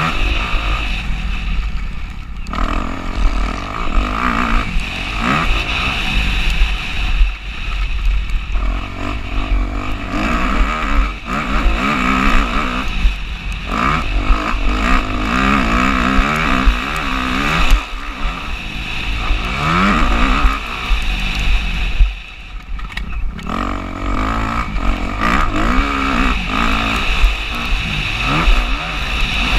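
Motocross bike engine revving hard and easing off again and again, its pitch rising and falling, with a heavy low rumble of wind on the microphone. The engine note drops away briefly three times, as when the throttle is shut off.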